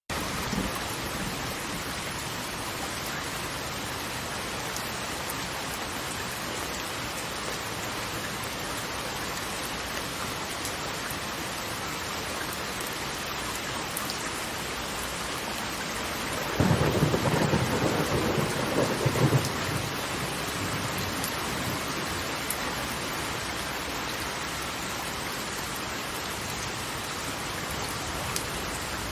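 Steady hiss of rushing water. About seventeen seconds in, a deep rumble swells up for roughly three seconds, then fades back into the hiss.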